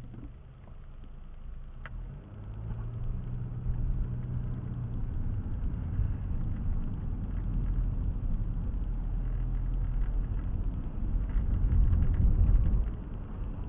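Car engine and road rumble heard from inside the cabin, low and steady. It builds up about two seconds in as the car gets going and eases off near the end.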